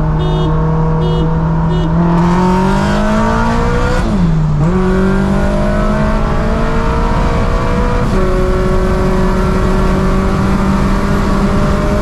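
Turbocharged Scion FR-S engine heard from inside the car, rolling steadily, then revving up under full throttle in a roll race. It shifts gear twice, the revs dropping sharply about four and eight seconds in, then climbs again. Three short high beeps sound in the first two seconds.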